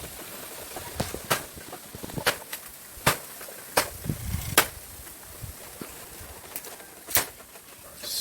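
Blade chopping into bamboo in a thicket: sharp, separate strikes, roughly one every second for the first five seconds, then a pause and one more strike after seven seconds.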